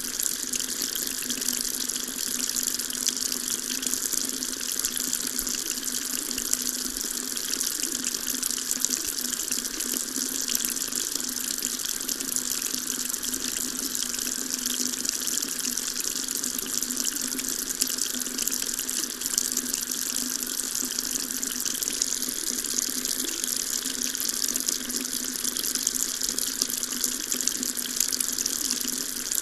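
Water tap running steadily, a continuous stream splashing into a sink with a bright hiss.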